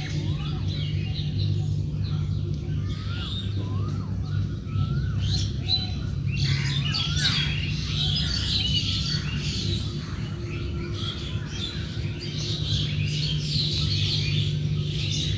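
Several wild birds chirping and calling: short up-and-down whistles repeat through the first few seconds, then dense high chirping, over a steady low hum.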